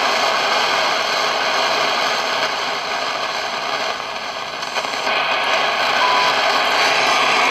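Shortwave radio receiver tuned around 3 MHz, giving a steady hiss of band static with a few faint steady carrier tones and a short tone about six seconds in. The static is lightning noise from nearby thunderstorms.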